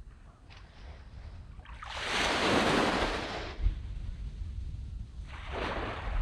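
Sea waves breaking on a sand beach. A large wave washes in about two seconds in and lasts a second and a half, and a smaller wave breaks near the end, over a steady low rumble.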